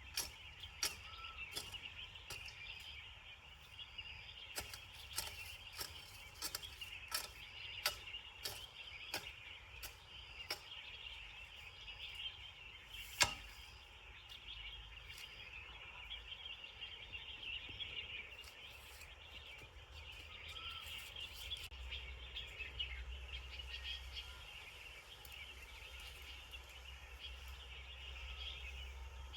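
Rural outdoor ambience: a steady high-pitched chorus of insects and birds, with scattered sharp clicks and ticks throughout and one louder click about thirteen seconds in.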